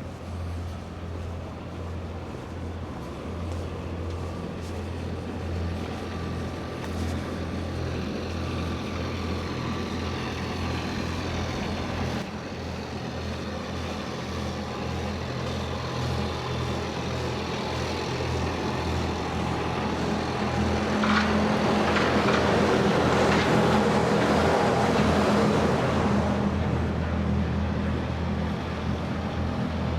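A large motor vehicle's engine running with a steady low hum, growing louder and loudest about twenty to twenty-six seconds in as it passes.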